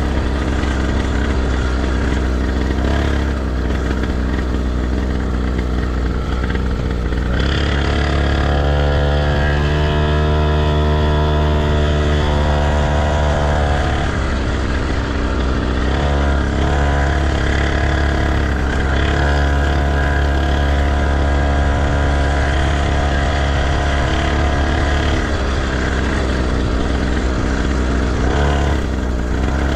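Motocross bike engine on a dirt track, its pitch rising and falling as the rider accelerates and backs off, with a constant heavy low rumble under it.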